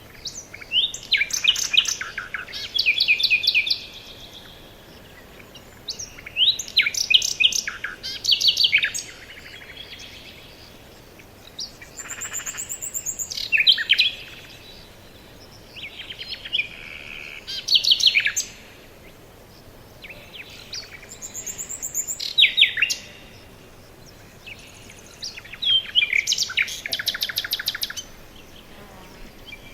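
Songbirds singing: short trilled phrases of rapid, often falling notes, each one to two seconds long, repeated every few seconds, with quieter chirps in the gaps.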